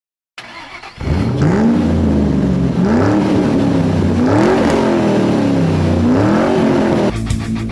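Dodge Viper 8.4-liter V10 engine firing up and being revved four times, each rev rising and falling in pitch. Rock guitar music cuts in near the end.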